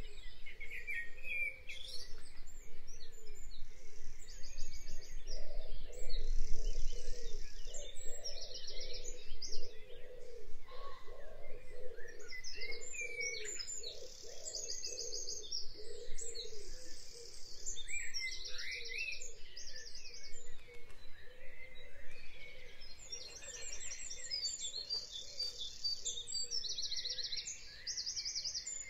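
Birds chirping, with short high trills repeated every few seconds over a steady low background.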